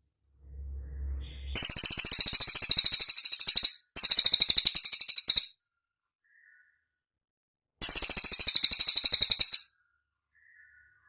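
Cililin bird singing: three loud, very rapid high-pitched trills of about two seconds each, with a few faint short chirps between them.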